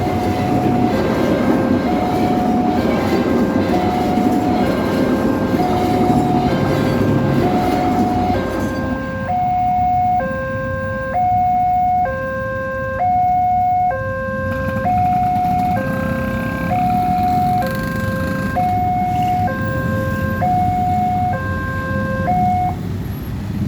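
Railway level-crossing warning alarm sounding a steady alternating two-tone signal, about two tones a second, the signal that a train is passing the crossing. A train's low rumble runs under it for the first third and fades out. The alarm stops shortly before the end.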